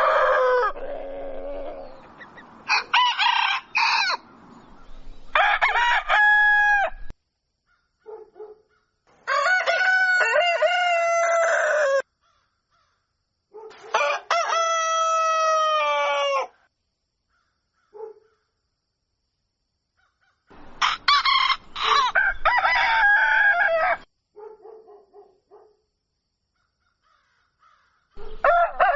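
Roosters crowing: about six long cock-a-doodle-doo crows of two to three seconds each, spaced by short silent gaps. A few brief clucks fall between them.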